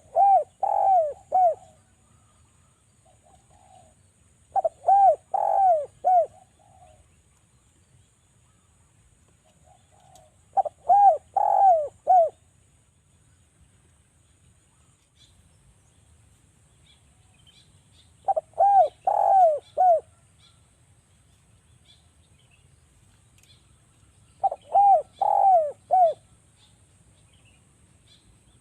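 Spotted dove (derkuku) cooing: five phrases of four or five quick coos each, repeated every five to seven seconds. A faint steady high whine sits under the calls.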